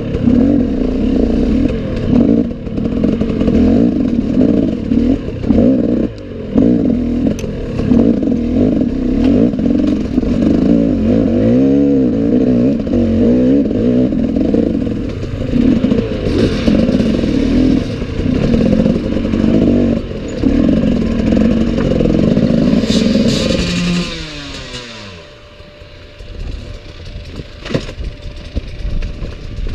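Enduro motorcycle engine running hard, revs rising and falling, with clatter and scraping. About 24 seconds in the revs fall away and the engine drops to a low idle.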